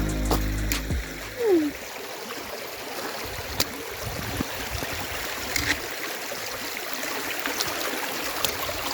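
Music fades out about a second in. After that, a small brook runs steadily, a continuous rush of water with a few faint clicks over it.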